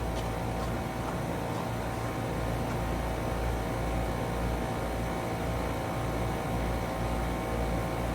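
Trane XR14 heat pump outdoor units running steadily in heat mode: the LG scroll compressors hum and the outdoor fans blow, a constant drone with a low hum beneath it.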